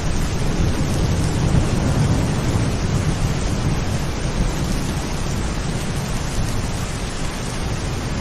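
Steady heavy rain with a low rolling rumble of thunder in the first couple of seconds that fades away, leaving an even rain hiss.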